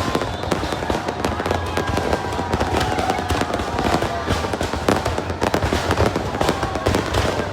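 Fireworks going off in a dense, rapid barrage of bangs and crackles at a steady level.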